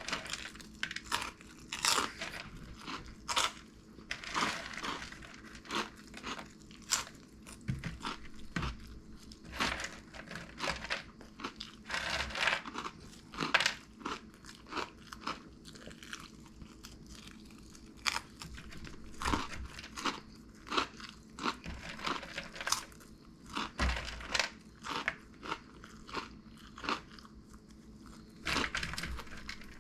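Crunchy cheese puff snacks being bitten and chewed close to the microphone, a long run of irregular crunches about one or two a second.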